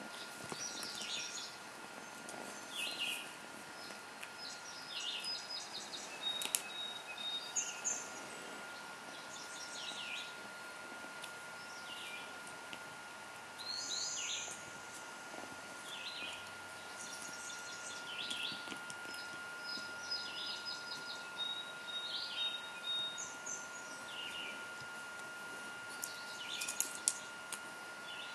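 Small birds chirping repeatedly in the background over a steady hiss and a thin constant tone, with a few sharp clicks near the end.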